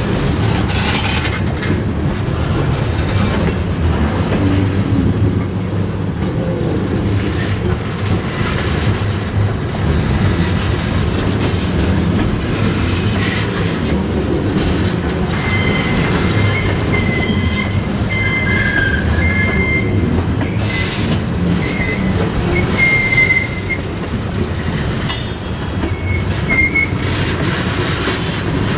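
Freight train rolling slowly on jointed track, with a steady low rumble and knocks and clicks from the wheels. From about halfway through, the wheel flanges squeal in short, repeated high tones.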